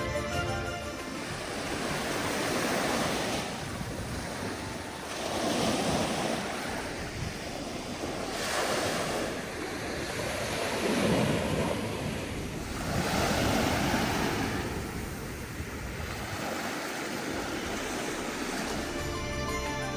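Waves breaking and washing up on a beach, the surf swelling and falling back every two to three seconds.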